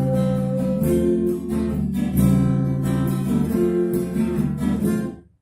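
Acoustic guitar strumming chords at a steady rhythm, then cutting off sharply to silence near the end.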